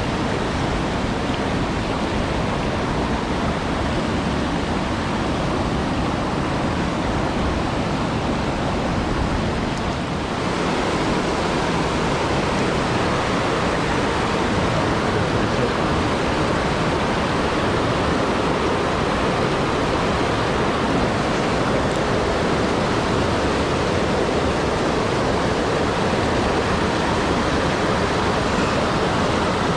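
Mountain stream flowing: a steady rush of water. Just after ten seconds the rush dips briefly, then runs on slightly louder.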